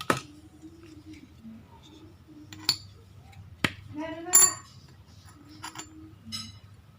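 A handful of sharp clicks and light metallic clinks, scattered a second or so apart, with faint low voices underneath.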